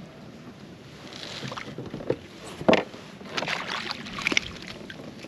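Irregular knocks, taps and rustling from gear and a fish being handled aboard a fishing kayak, the loudest knock about halfway through.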